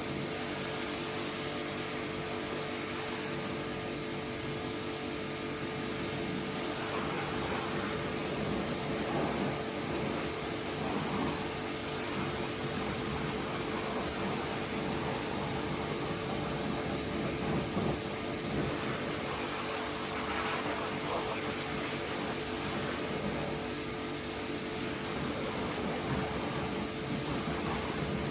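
Pressure washer running steadily, its motor giving a constant hum over the hiss of the spray.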